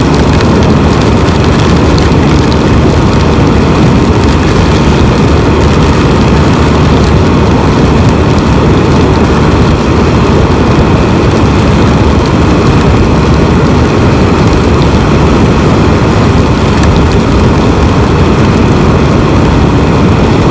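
Steady, loud rush of wind and road noise over the engine drone of a Can-Am Spyder three-wheeler ridden at speed, heard from a helmet or bike-mounted camera microphone.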